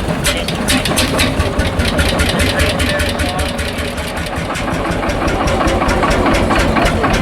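Single-cylinder two-stroke hot-bulb engine of a Lanz Bulldog tractor running steadily, its exhaust beats coming sharp and even at about seven a second.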